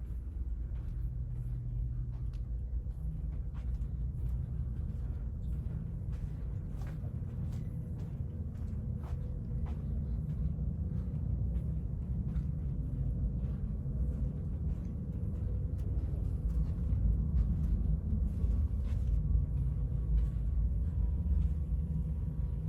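Steady low rumble with a faint steady hum and scattered light clicks and taps.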